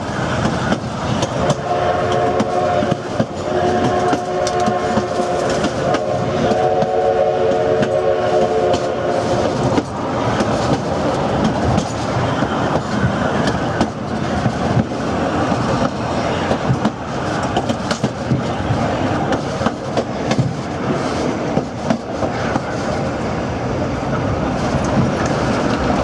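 A steam locomotive's chime whistle sounds three blasts of several tones at once from about two to ten seconds in, the last blast the longest. Throughout, the passenger cars rumble along the rails with the clickety-clack of wheels over rail joints.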